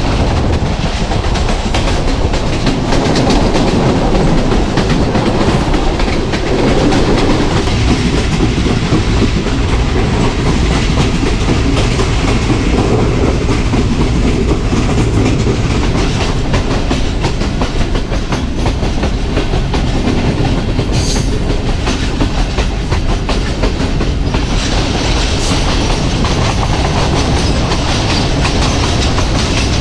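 A passenger train running along the track: a steady rumble with wheels clicking over the rails. The hiss grows brighter about 25 seconds in.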